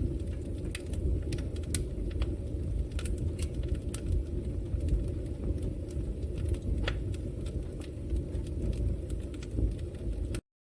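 Wood fire burning in a fireplace: a steady low rumble with irregular sharp crackles and pops from the burning wood. The sound cuts off suddenly near the end.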